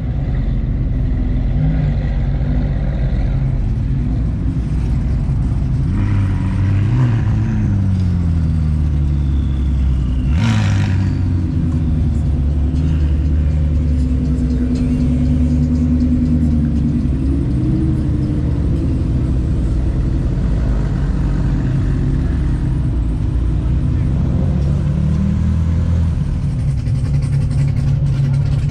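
A car engine running throughout, its pitch rising and falling now and then, with a sharp knock about ten seconds in.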